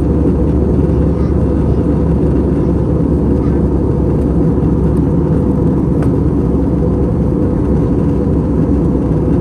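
Steady low rumble of airflow and IAE V2500 turbofan engines inside the cabin of an Airbus A321-200 in flight, with a faint steady tone above the rumble.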